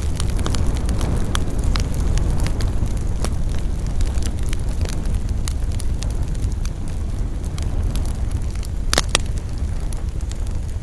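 Wood campfire burning: a steady low rumble with frequent sharp crackles and pops, and a louder cluster of pops about nine seconds in.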